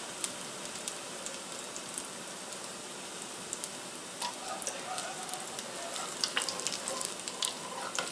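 Butternut squash fritters sizzling steadily in hot grapeseed oil in a frying pan, with scattered small pops and crackles. Near the end a metal spatula clicks and scrapes against the pan as a fritter is lifted to be flipped.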